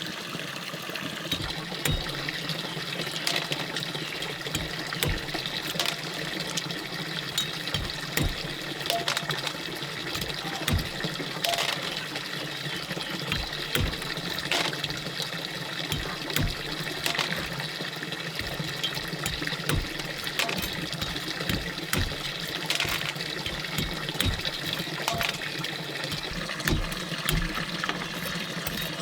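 Forest stream water running steadily, with frequent small irregular knocks and splashes throughout.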